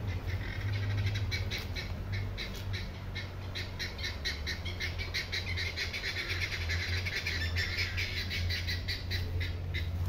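Birds calling in rapid repeated chirps, several a second, with a steady low rumble underneath.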